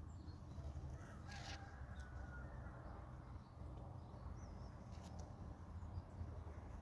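Faint outdoor ambience: a steady low rumble with a few distant bird calls, one a brief wavering whistle.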